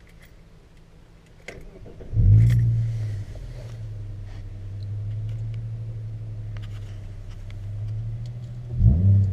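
A 2005 Subaru Outback's 3.0 flat-six, with both mufflers deleted and replaced by plain 2-inch tailpipes, starts up about two seconds in. It flares up loudly, then settles into a steady idle. Near the end it gives a quick rev that rises and falls. Before the start there are a few clicks over a faint hum.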